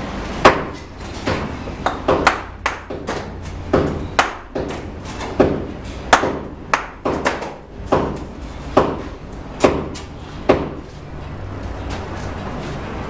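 A bricklayer's steel trowel striking cement bricks and mortar in a run of sharp, irregular knocks, about a dozen over ten seconds, each with a short ring, over a steady low rumble; the knocks stop near the end.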